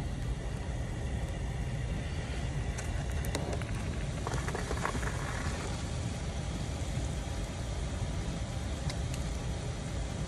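Water running out of an open hose bib to bleed down a well pressure system, over a steady low rumble, with a few faint ticks.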